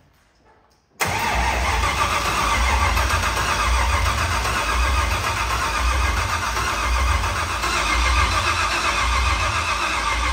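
GM LS V8 swapped into a Nissan S14 starting for the very first time: it fires abruptly about a second in and runs steadily at a loud, low-pulsing idle.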